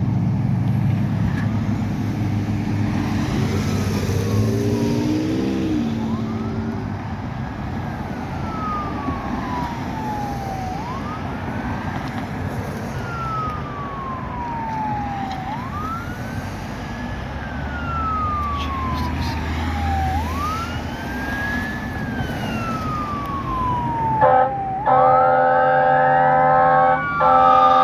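Fire truck's Whelen 295 electronic siren running a slow wail, each cycle rising quickly and falling slowly, about every four and a half seconds, over the truck's engine. Near the end a loud horn blast of several steady tones comes in, with brief breaks.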